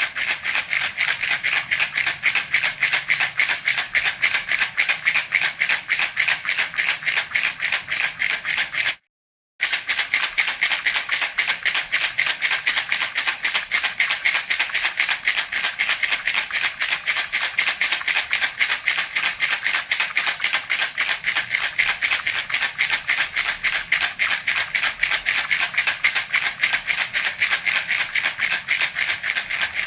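Baby's rattle (jhunjhuna) shaken steadily in a fast, even rhythm, giving a bright, high jingling rattle. It breaks off for about half a second around nine seconds in, then carries on.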